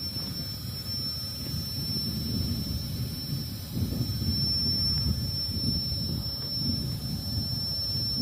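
Freight train's low, steady rumble.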